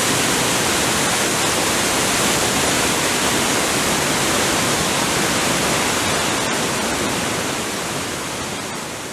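Roar of a large waterfall: a steady rush of falling water that starts to fade out about seven seconds in.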